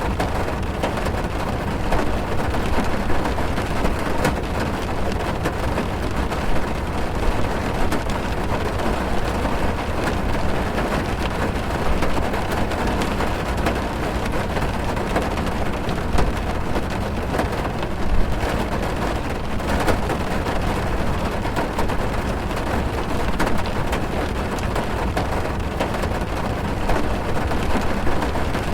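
Heavy rain falling on a car, heard from inside the cabin: a steady, dense patter of drops over a deep low rumble.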